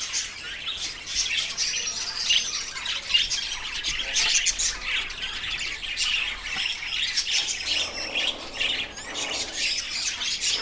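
Many birds chirping together, a steady chatter of short high calls overlapping throughout.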